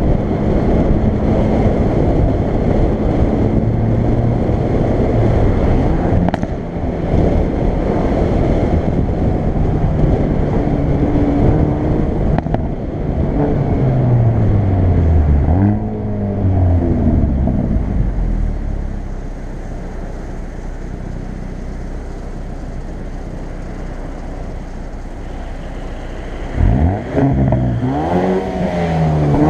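Hyundai i30 N's turbocharged 2.0-litre four-cylinder engine and exhaust under way in N mode, with road noise. The engine note falls as the car slows around the middle, runs quieter and steady for several seconds, then revs up sharply near the end and falls away again. A few sharp cracks stand out along the way.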